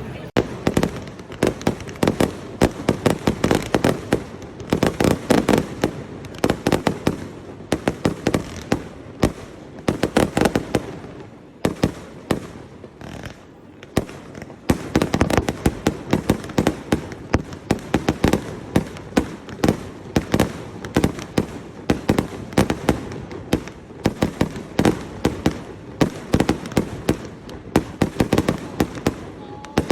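Fireworks display: a dense run of rapid bangs and crackles. It thins out for a couple of seconds a little before halfway, then picks up again.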